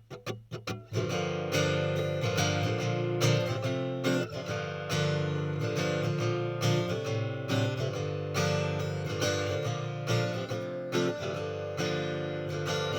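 Acoustic guitar strummed in a steady rhythm, an instrumental passage with no singing. It opens with a few quick, choked strums, then settles into full ringing chords.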